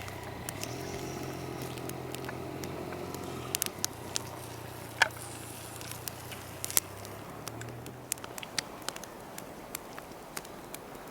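Campfire crackling with scattered sharp pops, one louder pop about five seconds in. Under it a steady low engine hum, like a vehicle running, stops about eight seconds in.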